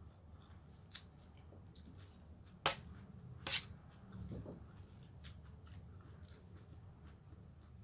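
A person chewing a mouthful of raw vegetable salad close to the microphone, with a few sharp wet clicks and smacks, the two loudest a little under three and about three and a half seconds in, over a low steady hum.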